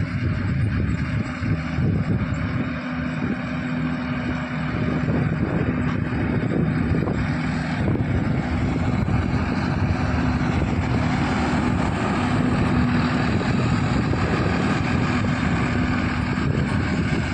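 Swaraj 969 FE tractor's diesel engine running steadily under load, a continuous low drone with a noisy mechanical rattle, with some wind on the microphone.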